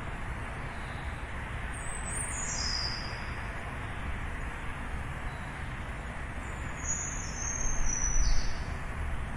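Birds chirping over a steady hum of distant city traffic: one high falling call about two seconds in, then a short run of high chirps near the end.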